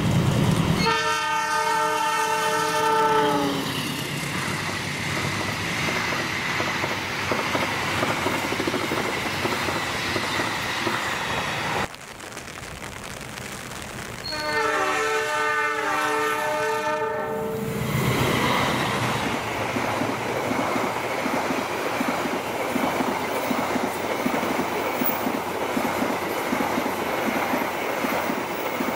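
Passenger trains hauled by diesel locomotives passing at speed. A multi-tone locomotive horn sounds for about two seconds near the start, its pitch dropping at the end as it goes by, followed by the rumble and wheel clatter of the coaches over the rails. After a cut, a second locomotive sounds its horn again for about three seconds partway through, then more rumble and clatter of the passing coaches.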